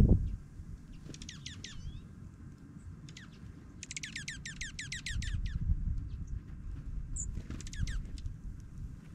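Dark-eyed juncos calling in fast trills of sharp, downward-sweeping notes, in several bursts with the longest in the middle, over a low rumbling background and a brief thump at the very start.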